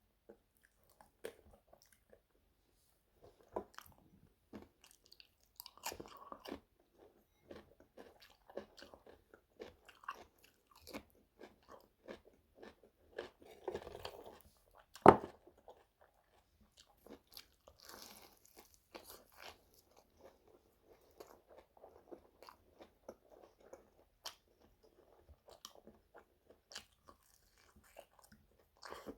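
Close-up eating of fried chicken drumsticks with a potato-starch crust: crunchy bites and chewing in irregular bursts. There is one sharp, loud crunch about halfway through.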